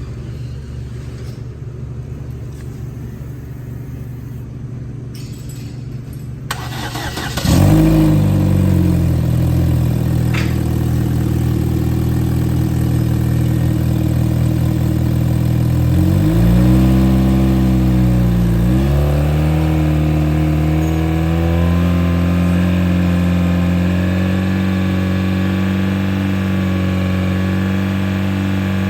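2012 Chevy Sonic 1.8L four-cylinder engine starting about seven seconds in, after a low steady hum. It runs at a fast idle, is revved up and back down twice, then idles steadily.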